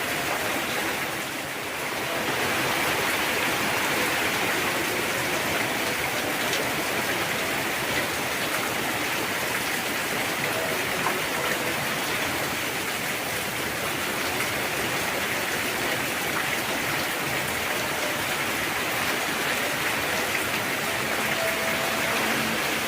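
Heavy rain falling steadily, a dense even hiss of drops hitting surfaces, with a brief lull about a second in.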